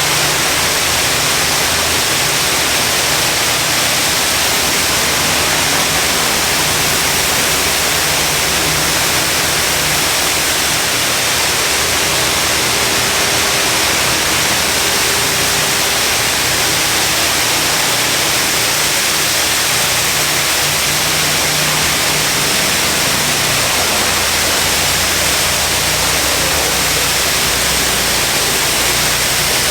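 High-pressure water jets of a PDQ LaserWash touchless automatic car wash blasting a small pickup, a steady rushing hiss that does not let up, with a faint low hum of machinery underneath.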